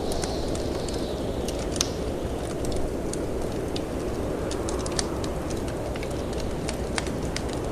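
A wood fire crackling, with frequent irregular sharp pops and snaps, over a steady low rush of storm wind. A high wind whistle slides down in pitch near the start.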